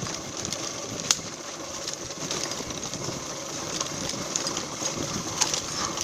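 Single-cylinder four-stroke trail motorcycle engine running with a fast, rattly chug while riding a dirt trail, with a sharp knock about a second in.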